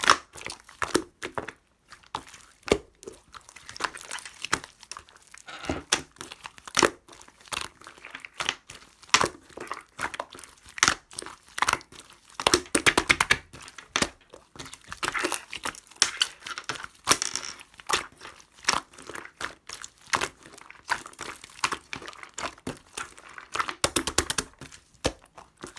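Clear slime being squished and pulled by hand, giving a continuous run of irregular sticky pops, clicks and crackles.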